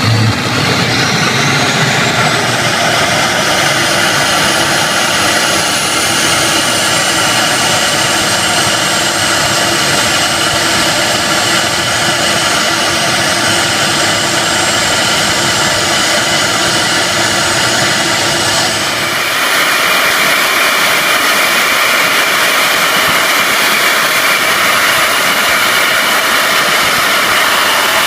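Jet engine running on a test stand. A high whine rises in pitch over the first few seconds as it spools up, then holds steady over a loud rushing noise. About nineteen seconds in, the sound changes abruptly: the whine drops out and a louder, hissier rush takes over.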